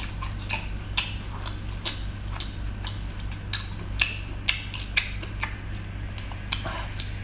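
Irregular sharp clicks and cracks of someone eating shell-on seafood, over a steady low hum.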